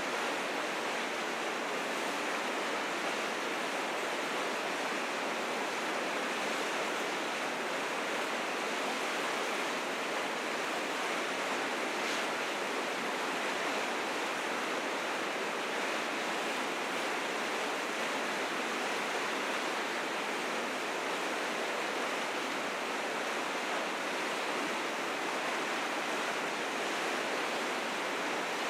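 River rapids in spring flood, water rushing steadily and fiercely over rocks with no break or change.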